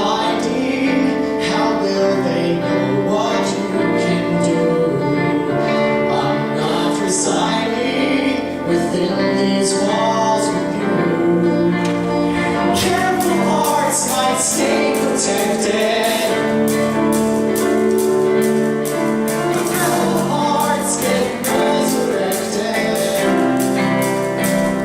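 Vocal group singing a song with instrumental accompaniment; about halfway through, a steady percussion beat comes in.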